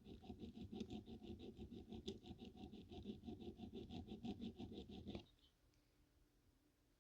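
Small hand file rubbing back and forth over a small clock part in rapid, even strokes, about five or six a second, stopping abruptly about five seconds in. The part is being filed flat so a glued repair will hold better.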